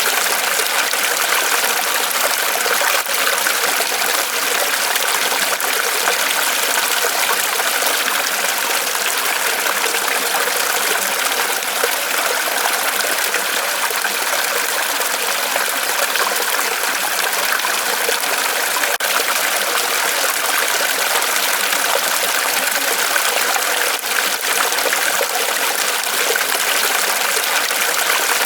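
Small waterfall of water trickling and splashing steadily off a tree trunk, an even rushing hiss with faint droplet clicks.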